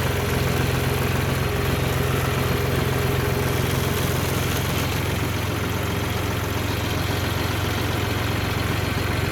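A vehicle engine running at a steady low hum, easing slightly a little past halfway through.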